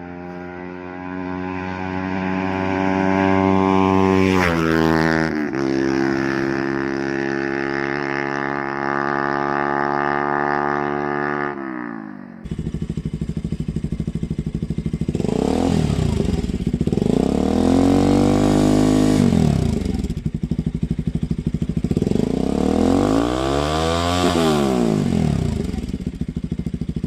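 Bajaj Pulsar NS200's single-cylinder engine running through an aftermarket exhaust. It holds a steady note that drops in pitch about five seconds in, then after an abrupt cut it is revved up and down several times, the pitch rising and falling with each blip.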